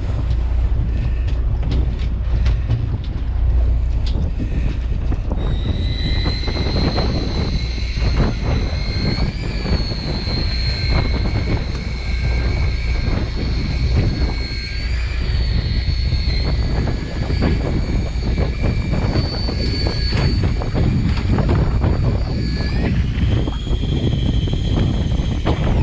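Wind buffeting the microphone over a boat's engine drone. From about five seconds in, a steady high motor whine runs over it, jumps higher in pitch a few seconds before the end, and then stops.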